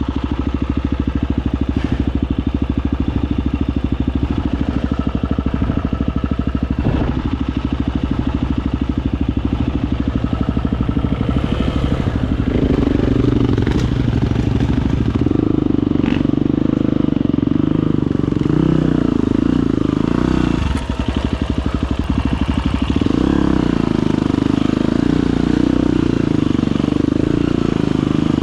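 Husqvarna FE250's 250 cc single-cylinder four-stroke enduro engine running at low revs under throttle, pulling harder from about halfway through. About three-quarters of the way in the revs drop for a moment, then pick back up.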